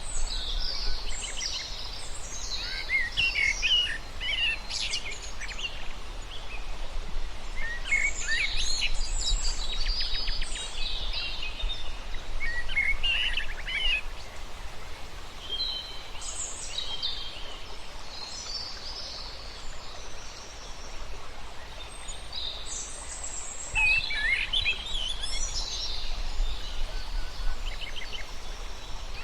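Several birds chirping and singing in overlapping bursts of quick, high calls, over a steady background hiss and low rumble; the calls thin out briefly a little past the middle.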